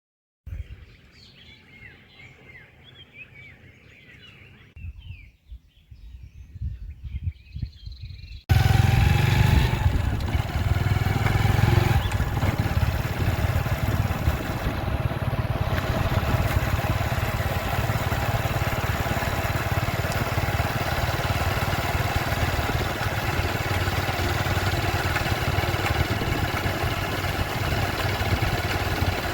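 Faint birds chirping, then an abrupt cut about eight seconds in to a loud, steady vehicle engine running.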